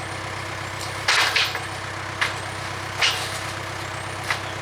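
Case 580K backhoe's diesel engine running steadily, with four short hissing bursts about a second apart.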